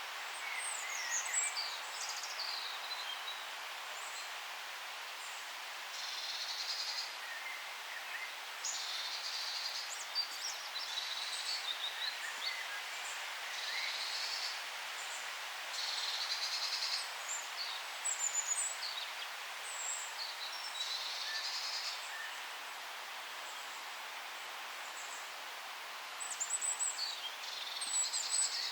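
Forest birds singing over a steady background hiss: one bird repeats a short, roughly one-second song phrase every few seconds, while others give thin, high chirps in between.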